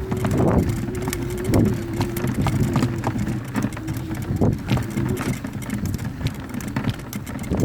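Mountain bike rolling downhill over a dirt trail: rough tyre rumble with the rattle and clicking of the bike over bumps, and a steady hum underneath.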